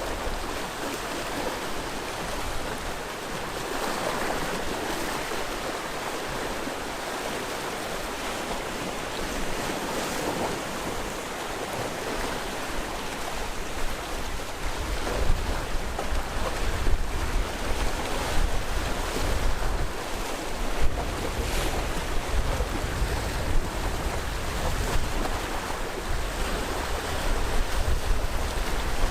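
Sea waves washing onto the shore, a steady rushing surf. From about halfway, wind buffets the microphone in gusts, adding a low rumble.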